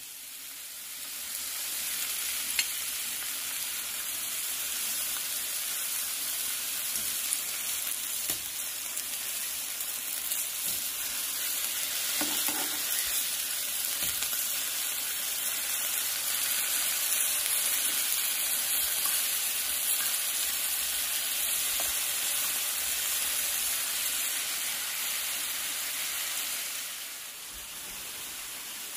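Lion's mane mushroom pieces sizzling steadily as they fry in butter in a nonstick pan, with a couple of sharp clicks along the way; the sizzle drops quieter near the end.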